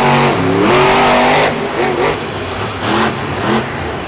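Monster truck engine revving, its pitch rising over the first second, then several short throttle blips rising and falling.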